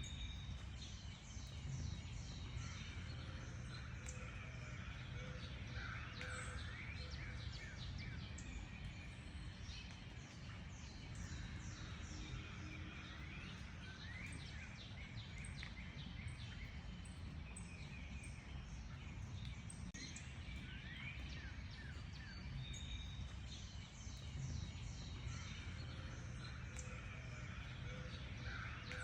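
Chorus of many wild songbirds chirping and calling at once, with overlapping quick high notes throughout, over a steady low outdoor rumble.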